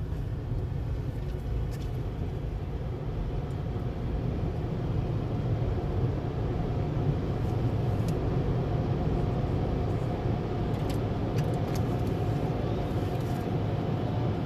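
Car engine running with a steady low rumble, heard from inside the car.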